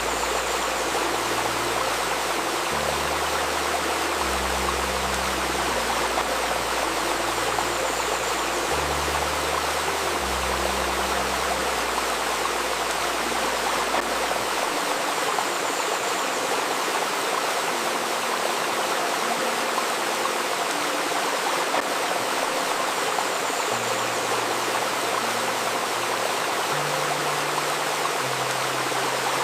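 A babbling river running steadily, with a soft ambient music bed of low sustained notes that change every second or two; the deepest notes drop out about halfway through and come back near the end.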